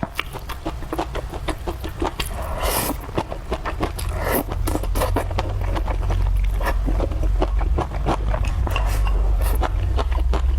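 Close-up eating sounds: rapid irregular clicks and crunches of chewing and of utensils scraping and tapping on the dish, over a steady low rumble.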